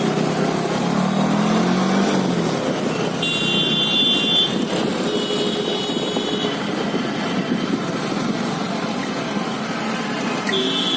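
Busy city street traffic: a mix of car and motorcycle engines and tyre noise. One engine revs up and back down in the first two seconds, and two short horn toots sound about three and five seconds in.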